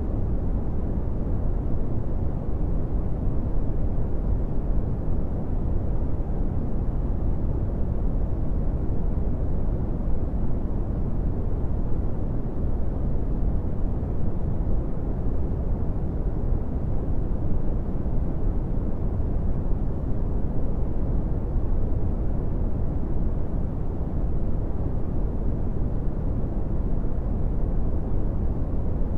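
Brown noise: a steady, unchanging deep rumbling hiss, strongest in the bass and falling away toward the treble.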